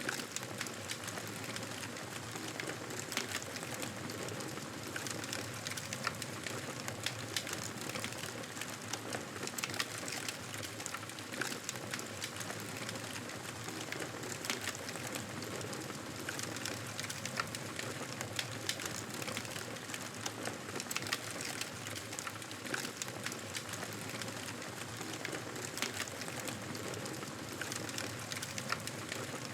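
Fireplace fire crackling: a steady hiss with frequent small, irregular pops and snaps.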